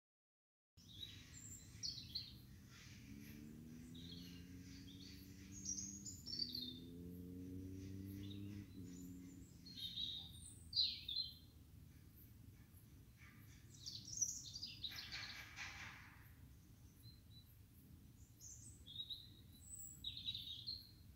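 Small birds chirping in short, scattered calls over a low background noise. A low drone hums from about three seconds in until about nine.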